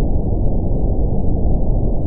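Deep brown noise: a steady, even rumble with all its weight in the lows and nothing in the upper range.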